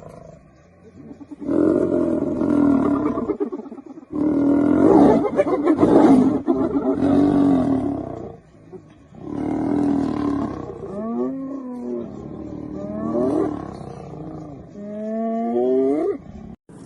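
Lions growling and roaring during a fight, in three loud bouts with short breaks between them. Near the end the calls turn into wavering, gliding cries.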